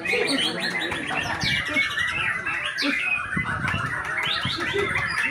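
Many caged songbirds, murai batu (white-rumped shamas), singing at once: a dense, unbroken tangle of overlapping chirps, trills and whistles.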